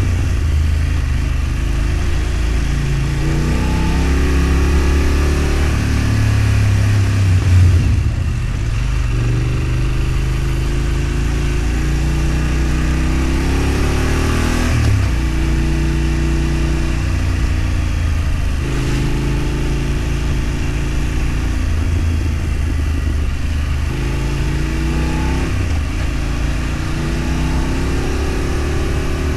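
A vehicle's engine under way, its pitch climbing as it accelerates and then dropping sharply at each gear change, several times over.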